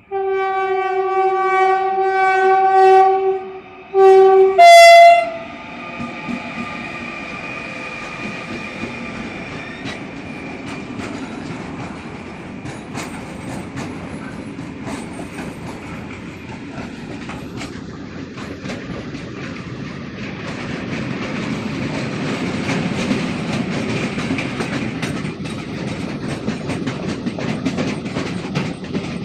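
Renfe train sounding its horn: one long blast, then two short ones about four seconds in, the last at a different pitch. Then the train rolls past, its wheels clattering over the rail joints in a steady rumble that grows louder again about twenty seconds in.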